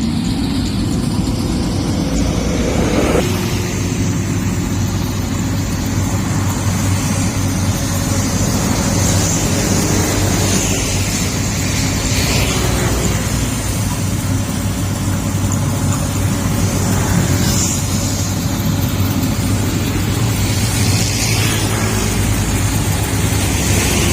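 Yanmar YH850 combine harvester's diesel engine running steadily with a constant low drone.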